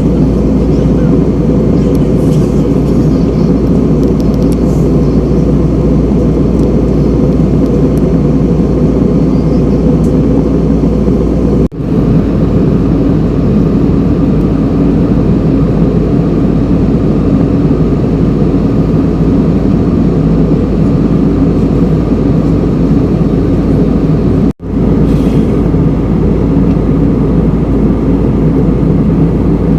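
Steady cabin noise inside a passenger jet: the continuous roar of engines and airflow with a low hum underneath, cut off for an instant twice, about twelve and twenty-five seconds in.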